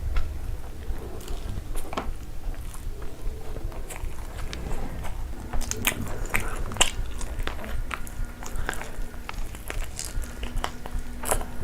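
Close-miked eating: irregular crunchy bites and chewing, with scattered sharp clicks and crackles.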